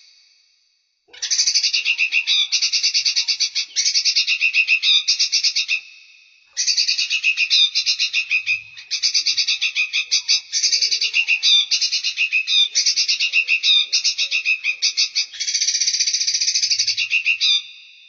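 Small songbird singing fast, buzzy, high-pitched trilled phrases, each a few seconds long, with short pauses about a second in and around six seconds.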